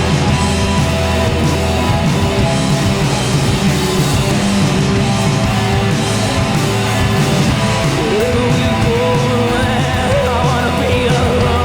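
A rock band playing live: distorted electric guitar, bass and drums at full volume, with a lead line that bends and wavers in pitch over the last few seconds.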